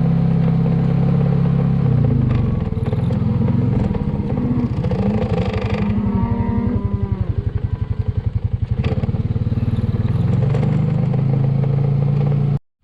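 Motorbike engine running close by. It is steady at first, its pitch wavers up and down with the throttle through the middle, then it steadies again before cutting off suddenly near the end.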